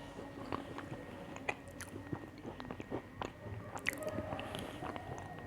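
Close-miked chewing and biting of crunchy biscuits: irregular crisp crackles and clicks over wet mouth sounds.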